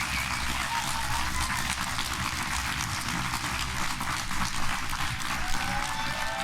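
Audience applauding: a steady spell of many people clapping.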